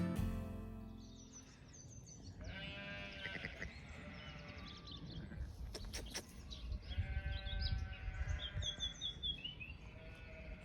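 Sheep bleating in two long wavering calls, the first a few seconds in and the second near the end, with small birds chirping above them. Guitar music fades out in the first second or so.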